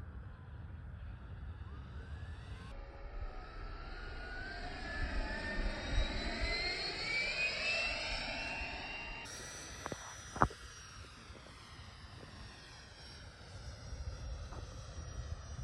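The 90mm electric ducted fan of a Freewing Zeus RC jet whines as it flies by. The whine swells and shifts in pitch, loudest about six seconds in, over a low rumble. A single sharp click comes about ten seconds in.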